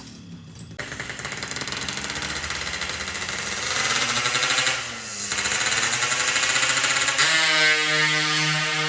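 Yamaha RX-King 135cc single-cylinder two-stroke engine revving through a loud aftermarket 'boban' exhaust: the revs climb, dip about five seconds in, climb again and are held steady near the end.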